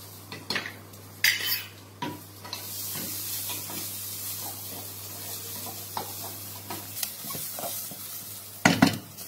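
Green chillies sizzling in hot oil in a kadai while a spatula stirs them, scraping and knocking on the pan. A couple of clatters come first, the sizzle rises about two and a half seconds in, and a loud knock of the spatula on the pan comes near the end.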